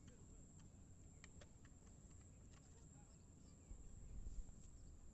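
Near silence: faint outdoor ambience with a low rumble that swells briefly near the end and a few soft scattered clicks.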